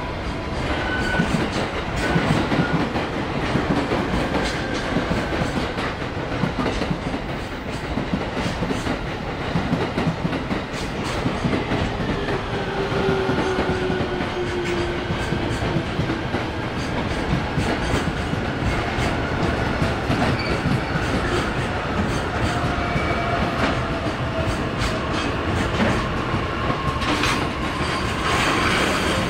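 A long freight train of JR Freight container flatcars rolling past close by, its wheels clattering steadily over the rails. Faint wheel squeals come and go.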